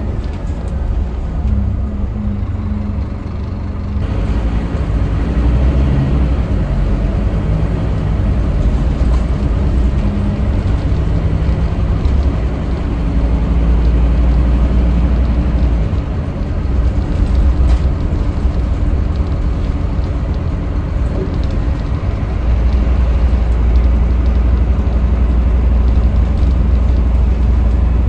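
Scania K310UB city bus under way, heard from inside the cabin: its diesel engine's note rises and falls in pitch and loudness over a heavy low road rumble. It grows louder about four seconds in.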